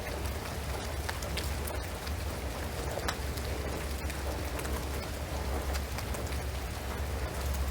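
Steady rain on a shingled roof and pine trees: an even hiss with many separate drops ticking irregularly, over a steady low rumble.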